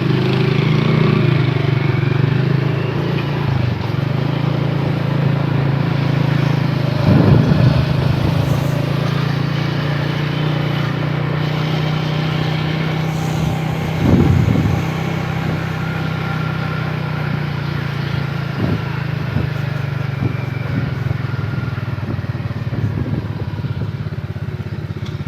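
Motorcycle engine running steadily at an even speed, with two brief louder noises about seven and fourteen seconds in.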